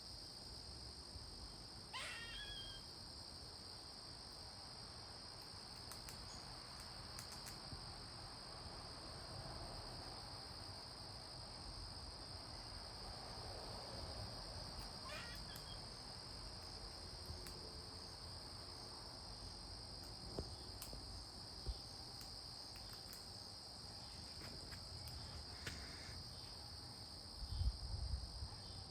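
Crickets chirping in a steady, high-pitched chorus. A short wavering call comes about two seconds in and again midway, and a few low thumps come near the end.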